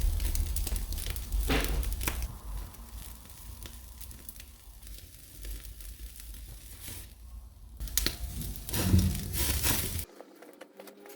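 Beef and vegetable skewers sizzling over a glowing oak-charcoal fire, with scattered crackles and sharp snaps from the coals. The sound drops away abruptly about ten seconds in.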